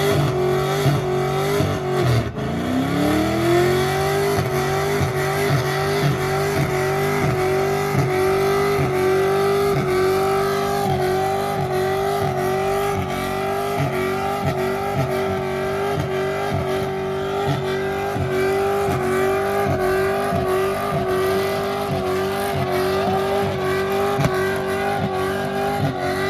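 Truck engine held at high revs during a burnout. The revs dip about two seconds in, climb straight back and hold steady for the rest, with a slight wobble.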